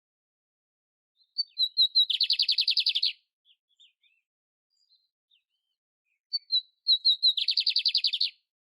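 Canário império (canary) singing two song phrases, each a few quick high chips running into a fast trill of about a dozen notes a second that lasts about a second.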